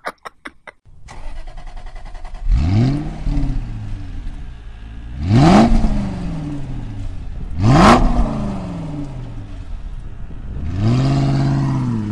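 Car engine revved three times, each rev rising and then falling away in pitch, followed by a longer rev held at a steady higher pitch near the end. A quick run of clicks comes in the first second.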